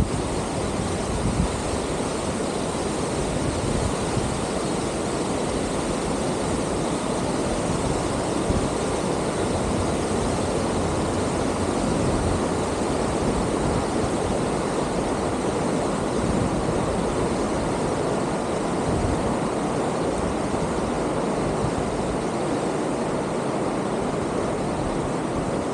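Steady rushing noise of wind over the microphone, with uneven low buffeting underneath.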